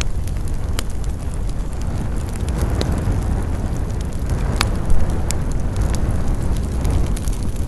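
Campfire burning: a steady low rumble of flame with scattered crackles and pops of the burning wood, one sharper, louder pop a little past halfway.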